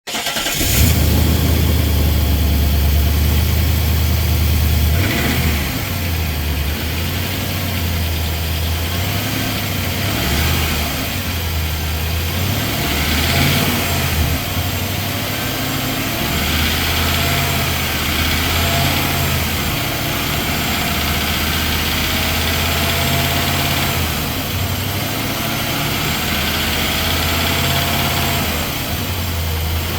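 2020 Nissan Titan's 5.6-litre V8 idling on a cold start, a little louder for the first few seconds and then settling into a steady idle. The owner hears a knock he takes for bottom-end knock, with a diesel-like clatter on top, which fades once the engine warms up.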